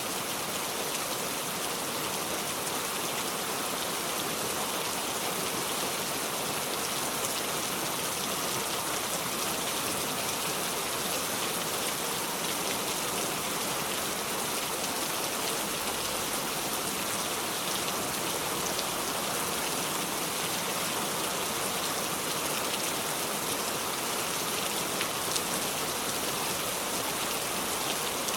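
Steady heavy rain falling, an even hiss with scattered drop patter and no thunder.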